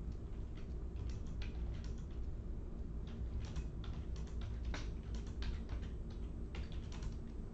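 Computer keyboard typing: irregular, uneven key clicks, over a steady low hum.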